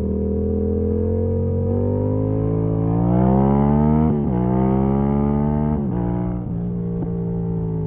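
Yamaha MT-07's parallel-twin engine through an exhaust with the dB killer removed, accelerating with rising revs. About four seconds in and again about six seconds in it cuts briefly and drops in pitch as the quickshifter changes up a gear, then runs steadier toward the end.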